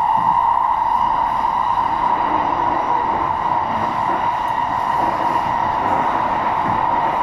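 SMRT MRT train running on the line: a steady rumble of running noise with a constant hum, unchanging throughout.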